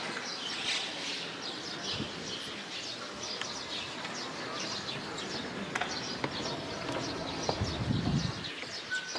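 Birds chirping, many short high calls over steady outdoor background noise, with a brief low rumble near the end.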